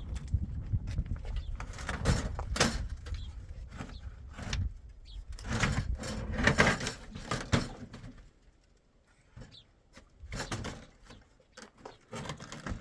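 Irregular wooden knocks, bumps and scrapes as a wooden door and boards are handled, over a low rumble that dies away about two-thirds of the way through.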